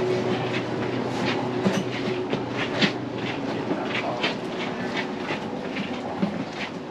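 Passenger train carriage in motion, heard from inside: a steady rumble with frequent short clacks and rattles.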